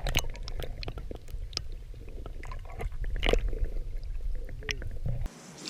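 Close handling noise while a caught smallmouth bass is handled at a kayak: scattered clicks, taps and small wet squishes over a low rumble, which cuts off suddenly near the end.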